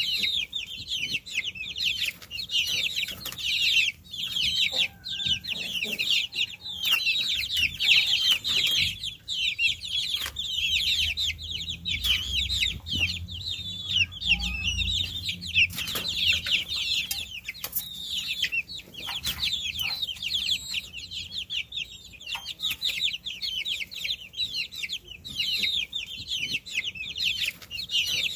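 A brood of baby chicks peeping continuously, many high-pitched downward-sliding chirps overlapping in a dense chorus.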